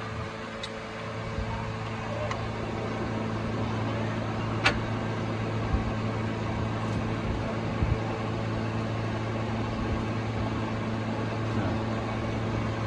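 Toyota 1ZZ-FE inline-four engine running steadily with a constant hum, getting a little louder over the first few seconds. A few sharp clicks or taps are heard, the loudest about a third of the way in.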